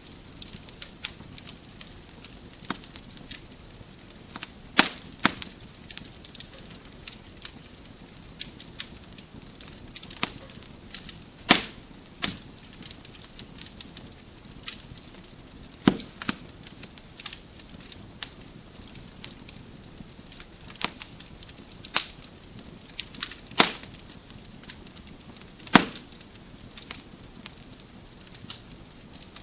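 Wood fire crackling in a fireplace: irregular sharp pops and snaps of burning logs over a steady low hiss, a few louder snaps standing out every several seconds.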